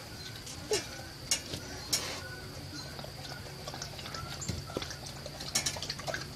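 A large dog and a toddler lapping and splashing at shallow water in a plastic toy slide: irregular sharp wet slaps and clicks, with a cluster of them near the end.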